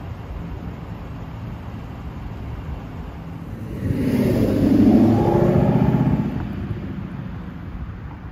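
Lexus LC500's V8 engine accelerating away: after a low steady rumble, the engine revs up loudly about four seconds in, then fades as the car drives off.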